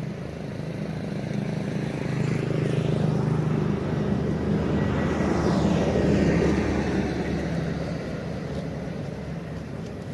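A motor vehicle passing by: its engine hum grows louder over several seconds, is loudest about six seconds in with a drop in pitch, then fades away.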